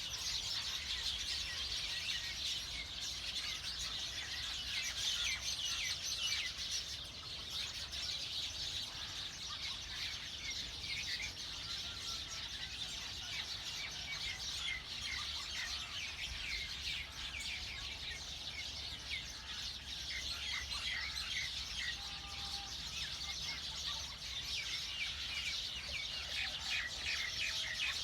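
Many small birds chirping at once: a dense, continuous chorus of short, high chirps overlapping one another, over a low steady rumble.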